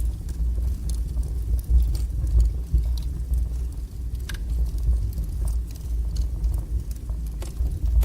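Wood fire burning in a fireplace: a steady low roar of flames with scattered sharp crackles and pops, one louder pop a little past four seconds in.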